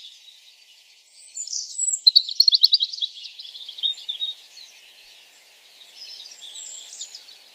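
Birds chirping, with a quick trill of rapid notes about two seconds in.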